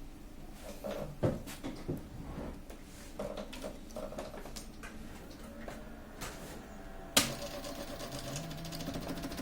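Clicks and knocks of parts being handled on an Epson PLQ-20 passbook printer, then a sharp click about seven seconds in and the printer's mechanism running with a steady motor whir, the feed rollers still moving on their own, the fault being chased.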